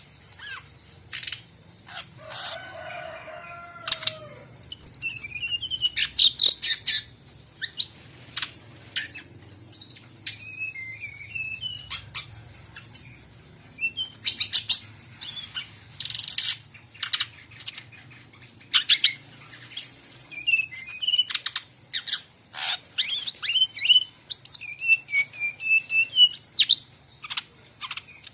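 Brown-chested jungle flycatcher singing busily in quick chirps, sliding whistles and short trills, mixed with calls of other birds, over a steady high-pitched hiss. A lower, harsher call comes in about two seconds in and lasts around two seconds.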